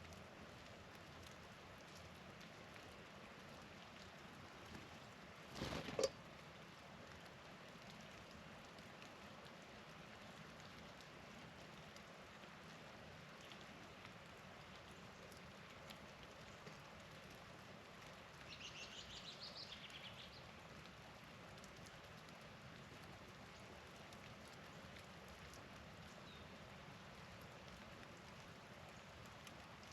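Faint, steady patter of falling precipitation. About six seconds in there is one sharp knock, and around the middle a small bird calls a quick run of high notes for about two seconds.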